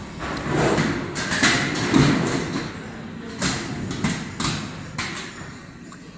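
Stainless steel tank lid and tank body knocking together as they are handled and set in position, a handful of sharp knocks spread over a few seconds.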